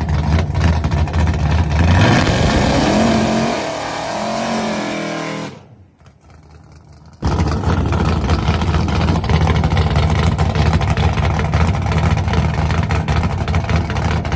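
Drag-prepped Chevrolet Nova V8 running loud, staging for a launch. The engine is held steady, with rising and falling revs from about two seconds in. The sound drops out for about a second and a half, then the engine returns at a steady, raised idle.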